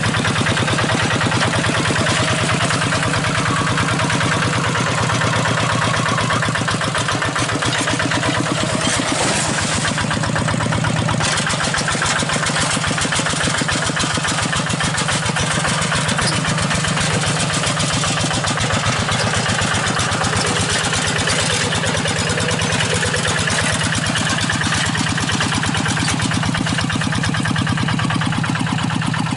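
Single-cylinder diesel engine of a rice-field hand tractor running steadily at a fast even firing beat.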